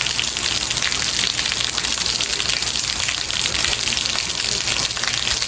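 Steady heavy rain: a dense, even hiss of many drops pattering, with no change in strength.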